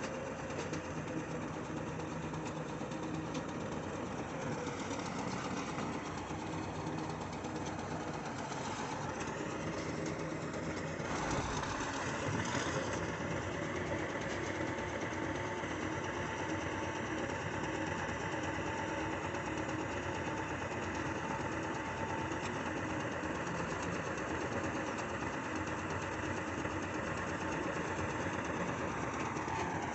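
Heavy diesel engine running steadily at idle. About eleven seconds in there is a brief louder noisy moment, after which a higher steady tone joins the engine note.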